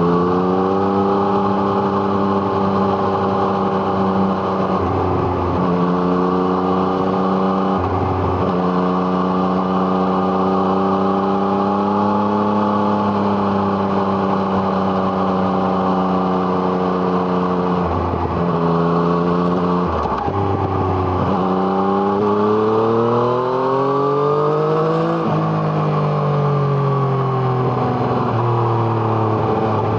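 Yamaha MT-09's three-cylinder engine, fitted with an Arrow Thunder exhaust, under way. The engine note holds steady with several brief breaks at gear changes, then rises steadily under acceleration and falls away as the bike slows.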